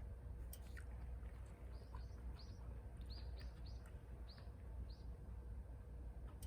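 A small bird chirping faintly: a run of about eight short, high chirps over a few seconds, over a steady low background rumble.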